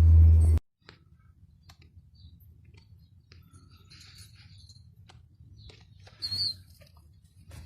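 A loud low rumble cuts off abruptly about half a second in. Then come scattered light clicks and scratches of pigeons moving about, with a short high chirp a little after six seconds in.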